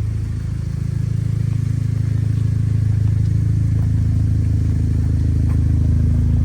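A combustion engine running steadily at idle, a low even hum with a fine rapid pulse, that cuts off abruptly at the very end.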